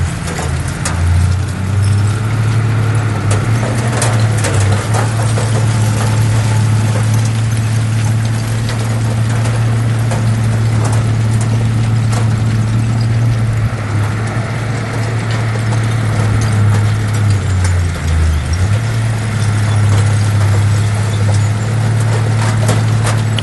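Heavy diesel engine of earthmoving machinery running steadily with a low drone, its pitch dipping briefly about three-quarters of the way through before recovering. Scattered clanks and clicks sound over it.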